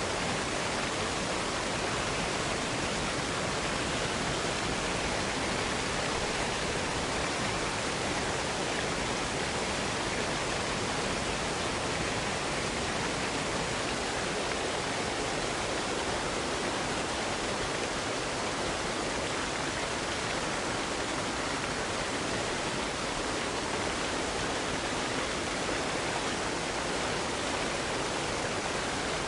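Waterfall cascade: water pouring and splashing in a steady, even rush with no breaks.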